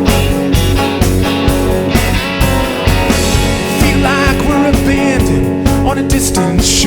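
Rock band playing live: guitar and bass over a steady drum beat, with a guitar or voice line bending and wavering in pitch in the middle.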